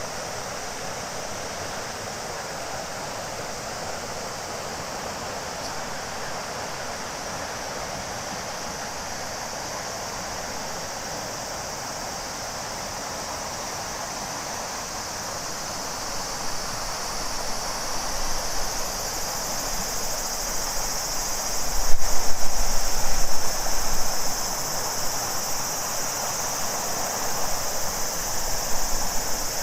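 Steady rushing of a river's flow. About halfway through, a chorus of cicadas swells in as a high, continuous buzzing and grows louder. A short thump comes about two-thirds through.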